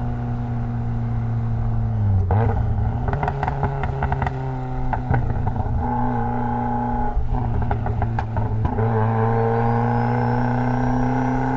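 Mitsubishi Lancer Evolution X's turbocharged 2.0-litre four-cylinder engine running under way. About two seconds in its pitch dips and picks up again, with a run of clicks and rattles over the next few seconds, then a slow rise in pitch near the end.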